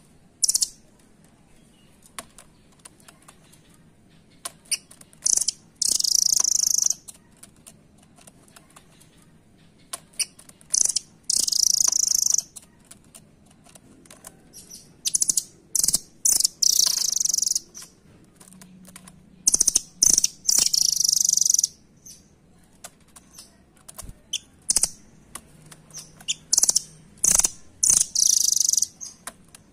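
Velvet-fronted nuthatch (rambatan doraemon) calling in short bursts of rapid, high-pitched chattering trills, about a dozen bursts with pauses between, and faint clicks in the gaps.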